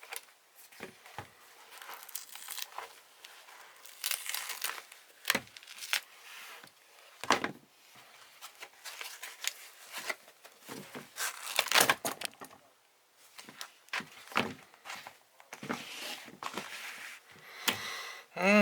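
A sneaker's glued-on rubber sole is being pulled and torn away from the upper in a series of irregular rips and scrapes.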